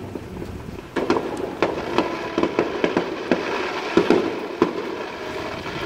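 Aerial fireworks bursting: after a quieter first second, a quick, irregular run of sharp bangs and pops.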